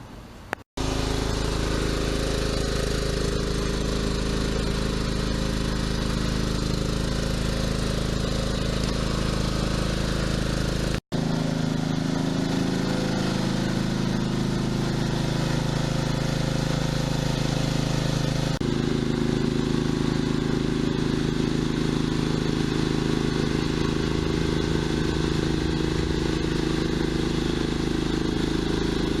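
John Deere tractor engine running steadily, broken by two very short gaps, one about a second in and one about eleven seconds in, with its tone changing about two-thirds of the way through.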